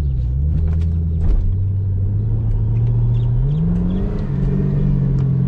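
Supercharged Chevrolet Camaro V8 running on the move. Its note holds steady, then jumps up in pitch about three and a half seconds in and holds there, as the revs rise on a paddle-shift downshift.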